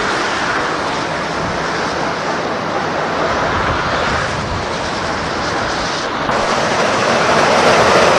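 Steady rushing noise of a train drawing near, with wind on the microphone, growing louder about six seconds in.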